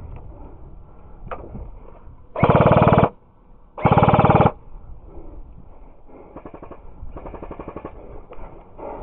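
Airsoft guns firing on full auto: two loud bursts of rapid, evenly spaced shots, each under a second long and about a second apart, followed by fainter rapid bursts in the second half.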